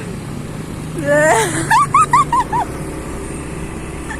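Motorcycle running steadily on the road. About a second in, a dog gives a loud bark followed by a quick series of about five short yelps.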